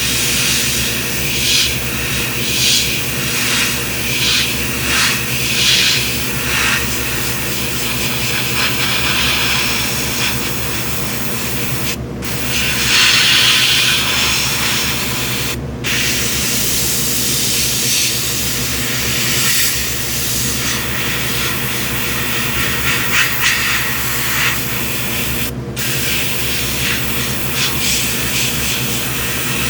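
Airbrush spraying paint: a continuous air hiss that swells and eases in short spurts as the trigger is worked, cutting out for a moment three times. A steady low hum runs underneath.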